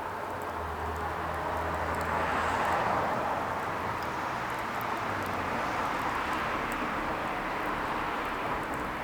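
A wood fire burning with a steady rush and a few sharp crackles. Under it, a low hum swells and fades over the first half.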